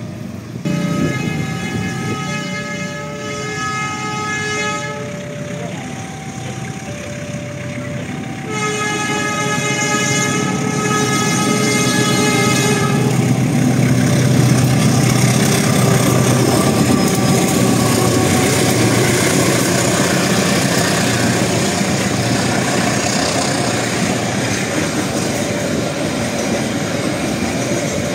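Indonesian diesel locomotive's horn sounding a run of short blasts alternating between two pitches, then a longer, fuller blast. The train then passes with a loud, steady rumble and wheels clattering over the rails.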